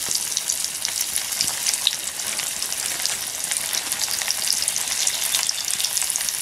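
Breaded zucchini slices shallow-frying in hot grease in a skillet: a steady sizzle thick with small crackling pops.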